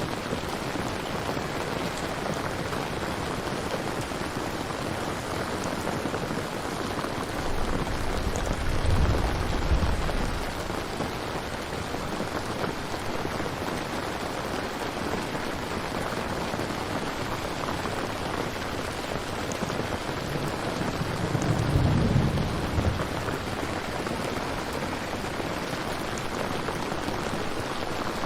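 Steady rain falling, with two low rumbles of thunder, one around eight seconds in and one around twenty-one seconds in, each lasting a few seconds.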